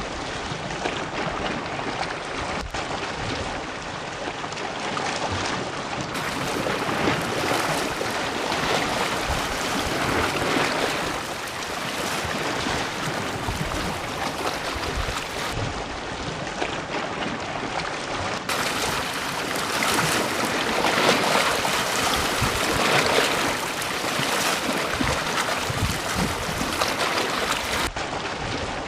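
Ocean waves breaking on a beach: a steady wash of surf that swells louder twice as larger waves come in.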